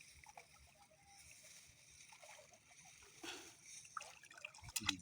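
Faint splashing and sloshing of water, with a short swell about three seconds in and a few clicks near the end, over a steady high-pitched hum of insects.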